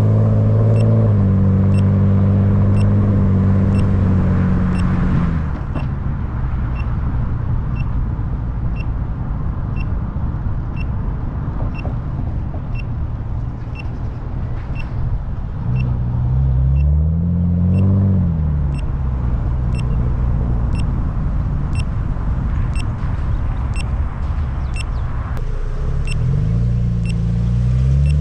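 Car engine running while driving: its note holds steady, drops off about five seconds in, climbs and falls back in the middle, then climbs again near the end. A faint short beep repeats evenly, about every 0.8 seconds, throughout.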